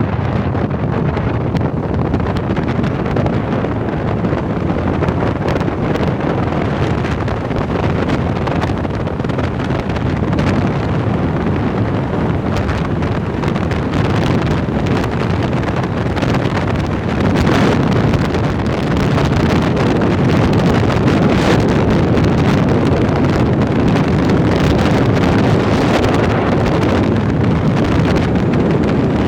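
Steady wind buffeting the microphone during a bike ride, with a dull rushing noise underneath; it grows a little louder about two-thirds of the way through.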